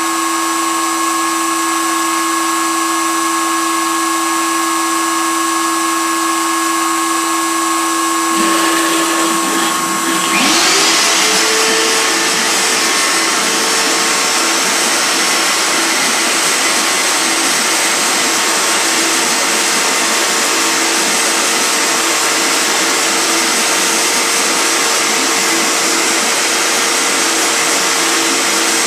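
Fine Line Automation 3x3 CNC machine running with a steady whine. About ten seconds in, a louder motor spins up, its pitch rising, and a loud rushing hiss joins in and then holds steady.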